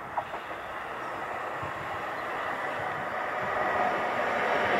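A train approaching on the main line, its rumble and rail noise building steadily louder. A brief high-pitched blip sounds just after the start.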